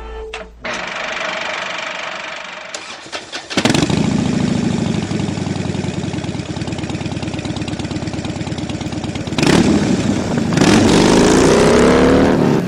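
A vehicle engine catches about three and a half seconds in and runs steadily, then is revved with a rising pitch near the end.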